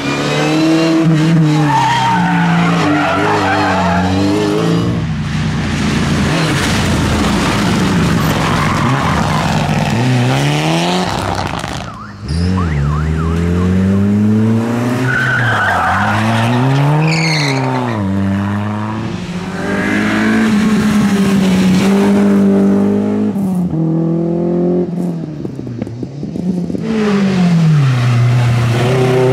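Rally car engines revving hard, the pitch climbing through each gear and dropping off on the brakes again and again, with tyre squeal as the cars work through the corners.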